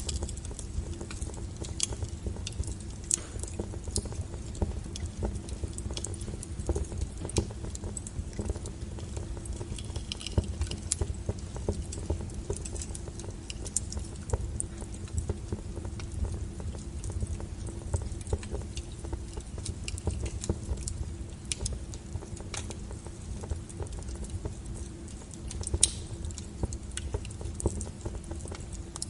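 Wood fire burning with a steady low rumble and irregular sharp crackles and pops from the burning firewood.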